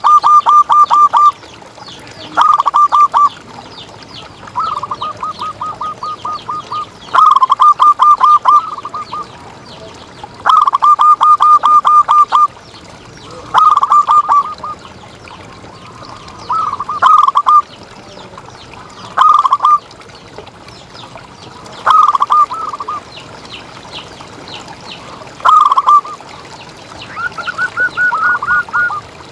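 Zebra dove (perkutut) singing: a rapid, stuttering run of cooing notes repeated every two to three seconds, about eleven phrases, the last one pitched a little higher.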